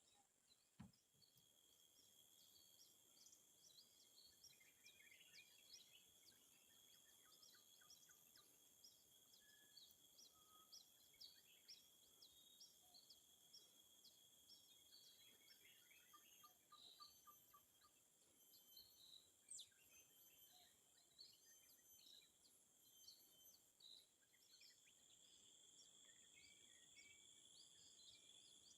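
Faint outdoor ambience: a steady high insect drone with many short bird chirps scattered through it, and a single soft knock about a second in.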